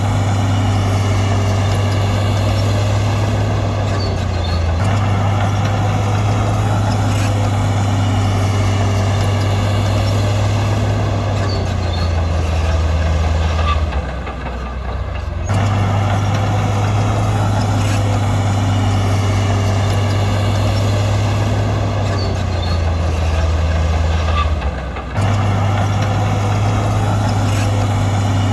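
Heavy diesel earthmoving machinery running steadily, a deep engine drone with two brief drops in level, about halfway through and near the end.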